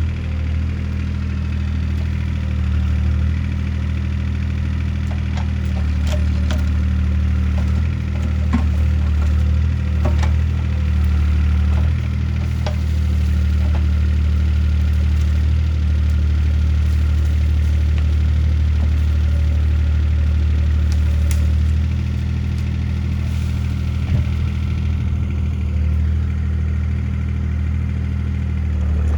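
CAT 303C CR mini excavator's diesel engine running steadily while working, pulling harder for about ten seconds in the middle. Scattered knocks and cracks sound over it as the machine clears trees.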